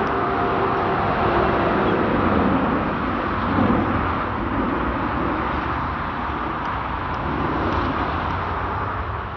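Jet airliner engines at takeoff thrust: a loud, steady, broad rumble that eases off near the end as the aircraft moves away.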